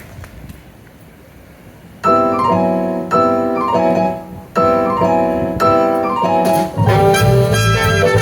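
Jazz big band's pianist playing the opening piano figure in two repeated phrases, starting about two seconds in. The rest of the band, with bass and horns, comes in near the end.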